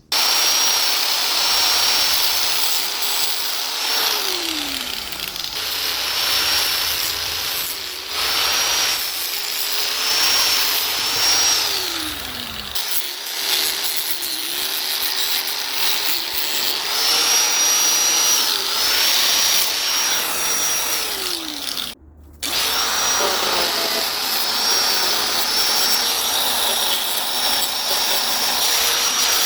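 High-speed electric power tool cutting away the cured fiberglass overhang from the edges of a box. It runs with a high whine that sags and recovers as it bites, and spins down several times as it is switched off and on again, with a short stop about 22 seconds in.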